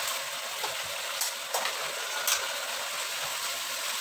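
Chili paste (sambal) frying in oil in a wok: a steady sizzle as petai beans are tipped in and stirred, with a few light clicks from the utensils.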